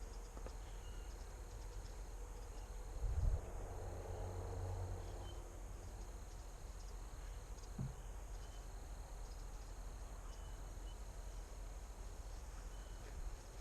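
Quiet outdoor background with a steady high insect drone and a few faint chirps, broken by a low thump about three seconds in.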